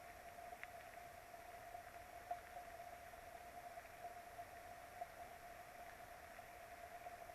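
Faint steady hiss of rain, with a thin constant tone underneath and a few light ticks of drops.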